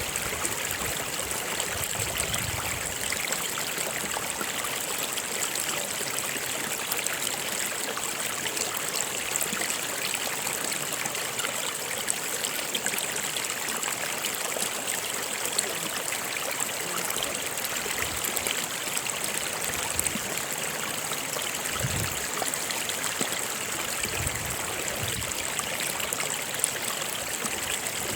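A stream running steadily, its water trickling and splashing in an even, unbroken rush.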